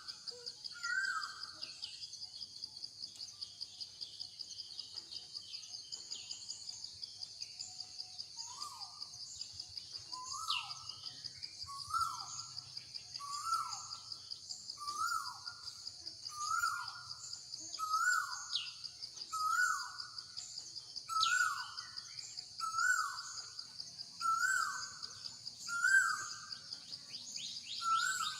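Insects drone steadily, with a bird repeating a short call about once every second and a half from roughly a third of the way in, and faint high chirps above.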